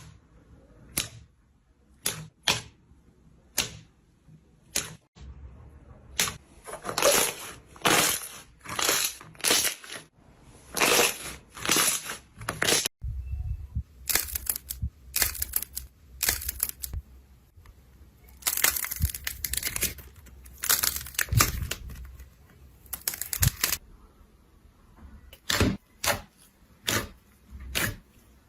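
Slime being squeezed and poked by hand in a series of sharp popping clicks, then longer crackly, crunching squishes about one a second, and then sharp clicks again near the end.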